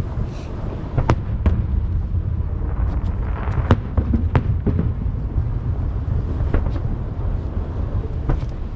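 Aerial fireworks shells bursting in quick succession: a continuous deep rumble of booms echoing off the surrounding mountains, with sharp cracks about every second.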